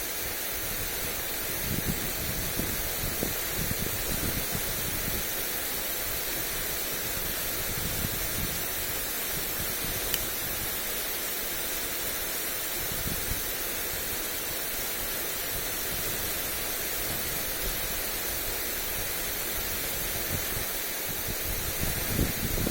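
Lawn sprinkler spraying water onto grass, a steady hiss of spray, with gusts of wind buffeting the microphone as low rumbles, strongest near the start and again near the end.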